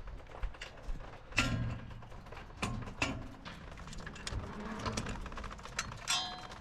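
Hand tools working a bolt on a go-kart frame: a string of clicks and metallic knocks, three of them sharper with a short ring, about a second and a half in, at three seconds and near the end.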